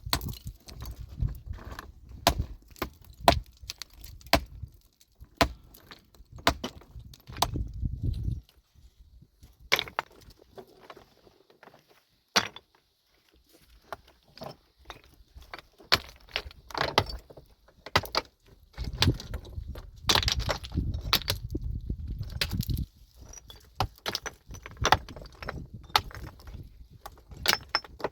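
Stones and metal tools knocking on rock: irregular sharp knocks and clinks, some loud, with two stretches of low rumbling noise and a short lull partway through.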